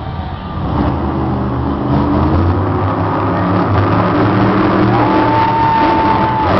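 Monster truck engine revving loud, its pitch climbing and settling. A steady high tone starts about five seconds in and holds for over a second.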